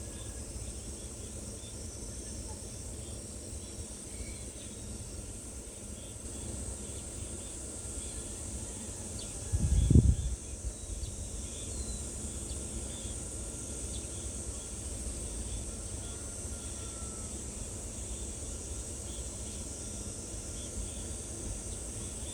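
Outdoor natural ambience: a steady high insect buzz over a low rumble, with faint short bird chirps scattered through it. A dull thump about ten seconds in is the loudest sound.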